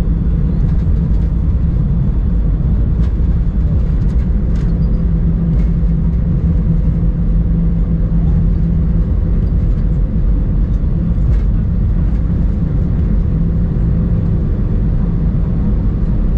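Steady low rumble of an Airbus A319 heard from the cabin: engine and airframe noise with a constant hum running through it and a few faint clicks.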